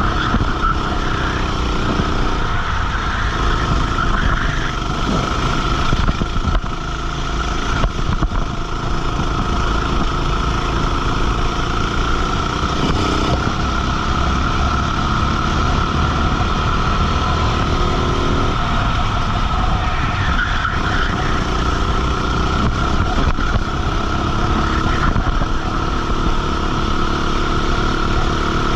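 Racing kart engine running hard from on board, its revs rising and falling through the corners, with a brief dip in loudness a few seconds in.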